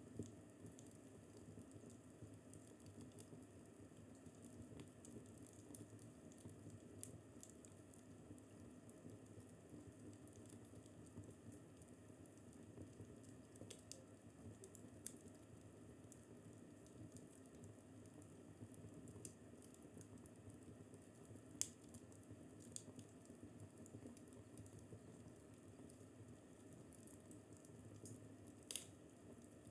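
Fireplace fire crackling faintly: a soft steady rumble under scattered small pops and snaps, with two sharper pops, one about two-thirds of the way through and one near the end.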